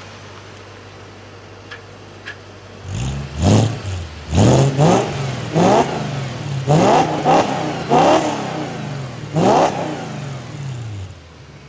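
Audi S4 B6's 4.2-litre V8 with JHM headers and a Milltek non-resonated exhaust, idling and then revved in a run of about seven quick throttle blips before settling back to idle.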